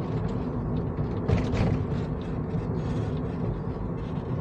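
Suzuki Solio on the move, with steady engine and road noise and a brief louder noisy burst about a second and a half in.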